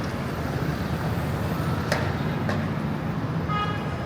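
Busy city street traffic: a steady low rumble of passing cars, buses and trucks. Two sharp clicks come about two seconds in, and a brief high-pitched tone sounds near the end.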